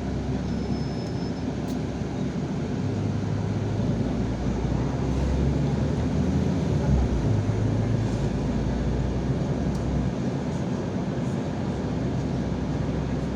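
Yutong ZK6128HG city bus engine and road noise heard during the ride, a low drone that rises in pitch about three seconds in as the bus pulls harder, then falls back near the end.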